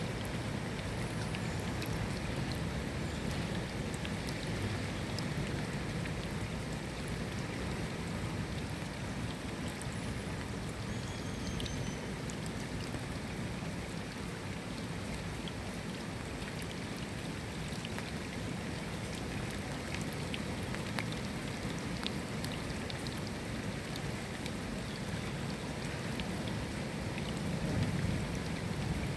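Steady rain falling: an even hiss scattered with small drop ticks. A low rumble of thunder starts building near the end.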